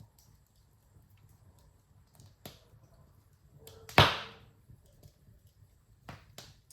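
Wood fire in a fireplace crackling: scattered small pops, with one loud sharp pop about four seconds in that dies away over about half a second, over a low steady rumble.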